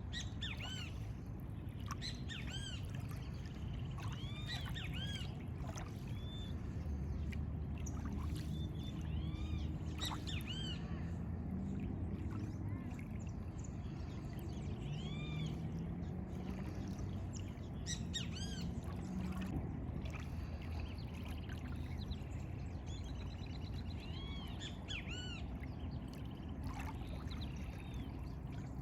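Several birds chirping throughout, in short, repeated, arching notes, over a steady low rumble of outdoor background noise.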